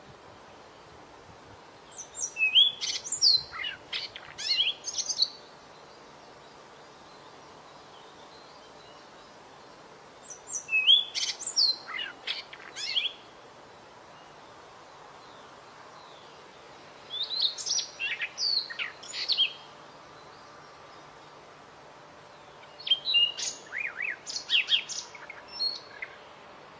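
A small songbird singing four short phrases of quick, high chirps and slurred whistles, each two to three seconds long and about seven seconds apart, over a faint steady hiss.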